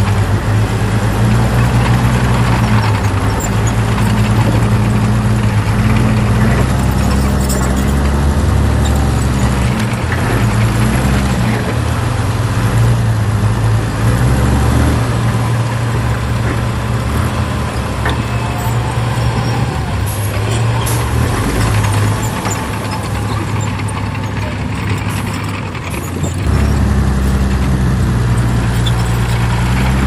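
Heavy diesel earthmoving machinery running, its engine note stepping up and down. It eases off for a few seconds about three-quarters of the way through, then comes back up.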